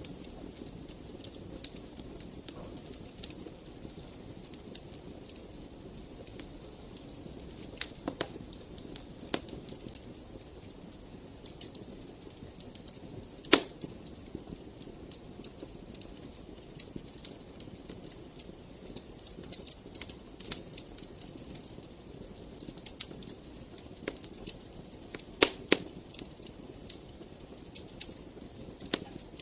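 Wood fire crackling in a fireplace: a steady low hiss with frequent, irregular sharp pops, one loud pop about halfway through and a few more near the end.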